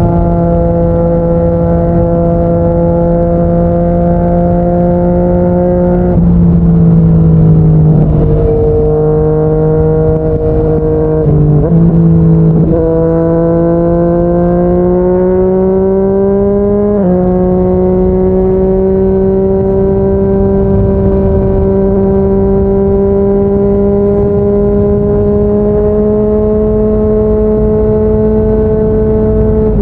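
Yamaha MT-09's inline three-cylinder engine running at speed through a Yoshimura R55 slip-on exhaust. The engine note drops suddenly about six seconds in and wavers for a few seconds. It then climbs steadily, jumps up sharply about halfway through and holds nearly steady, rising slowly.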